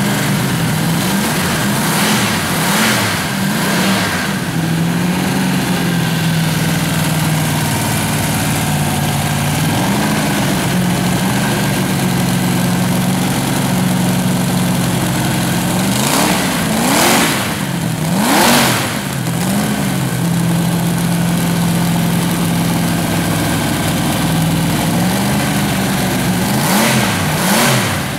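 Newly built aluminium-block Chevrolet 409 V8 running on its first start-up, idling steadily with the throttle blipped several times: short revs early on and near ten seconds, two bigger revs past the middle, and a couple more near the end.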